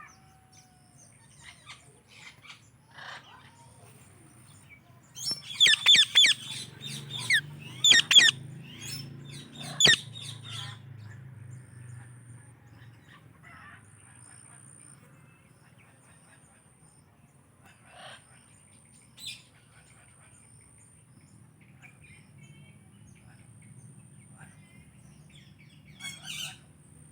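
Pet Psittacula parakeets calling: a cluster of loud, sharp screeches from about five to ten seconds in, with scattered softer chirps before and after. A steady low hum runs underneath.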